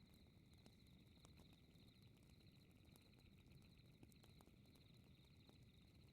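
Faint crackling fireplace: scattered sharp pops and snaps over a low, steady rumble of the fire, under a steady high, pulsing chirring of night ambience.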